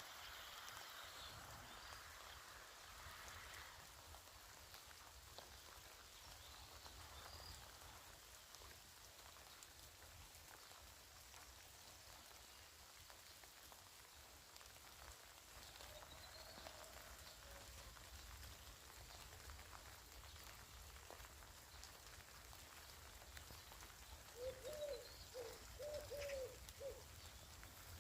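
Faint steady rain pattering, with scattered small drips. A bird chirps high now and then, and near the end a bird gives a run of about five short, low, cooing notes.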